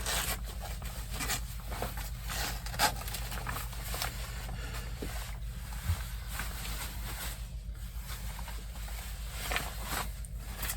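Soft rustling and brushing of a polyester mesh motorcycle jacket with a few faint knocks as the wearer moves about in it, over a steady low hum.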